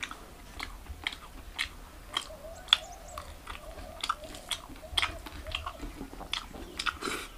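A person chewing a mouthful of rice and meat curry, with wet mouth clicks and smacks coming irregularly a few times a second.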